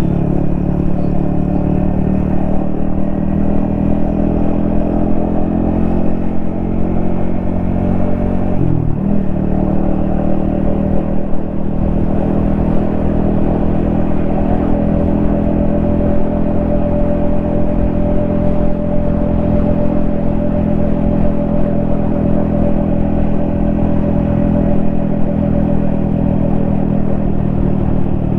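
Yamaha XSR155's 155 cc single-cylinder engine running steadily as the motorcycle rides along. About nine seconds in the engine pitch drops briefly and comes back up, then holds an even note.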